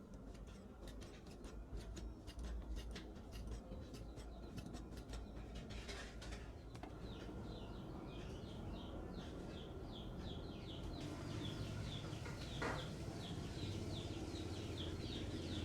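A small bird chirping rapidly and repeatedly over faint scattered clicks and a low background rumble.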